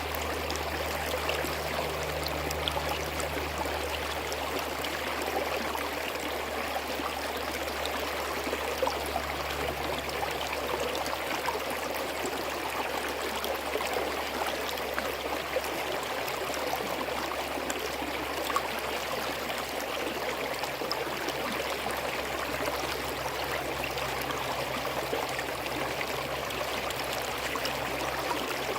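A small forest stream flowing and burbling steadily over rocks, with many small splashes. A low rumble runs underneath; it fades about ten seconds in and returns near the end.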